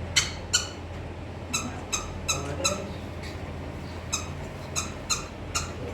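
About ten short, high-pitched chirps or squeaks, irregularly spaced, over a steady low hum.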